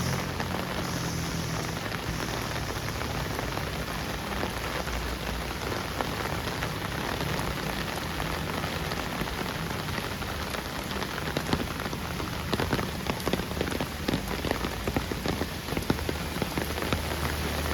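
Heavy rain falling, a steady hiss with many sharp individual drop hits, which grow denser and louder about two-thirds of the way through.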